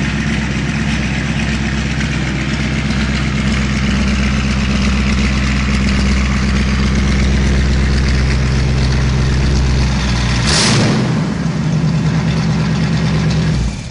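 Mercedes 300 SEL 6.8 AMG's V8 engine running at a steady idle. About ten and a half seconds in there is a short sharp burst of noise, after which the engine keeps running on a slightly changed note.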